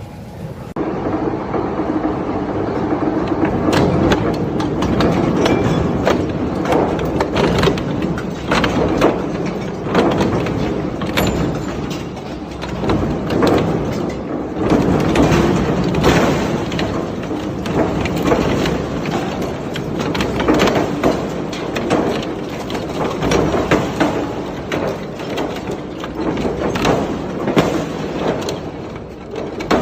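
Industrial shredder grinding and tearing through scrap metal, with a steady crunching din broken by many sharp cracks and bangs. It starts abruptly about a second in.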